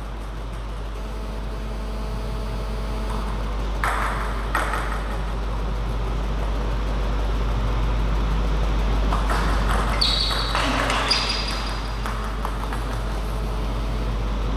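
A few scattered light taps of a table tennis ball, around 4 seconds in and again between 9 and 11 seconds, over a steady low hum in the hall.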